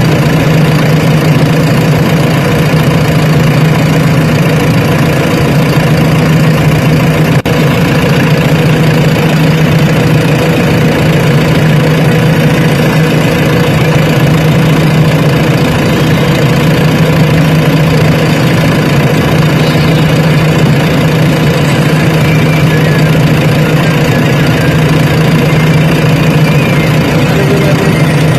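Heavy diesel engine of earth-moving machinery running loud and steady at a constant speed, with a strong low drone and no revving.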